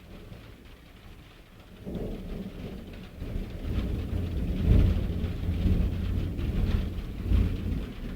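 Thunder rumbling during a heavy thunderstorm, over steady rain. The rumble builds about two seconds in, peaks twice and begins to fade near the end.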